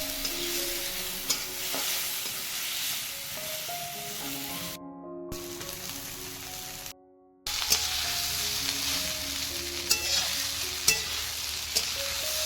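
Food frying and sizzling in hot oil in a pan, stirred, with a few sharp clinks of the utensil against the pan. The sizzling cuts out briefly twice, about five and seven seconds in.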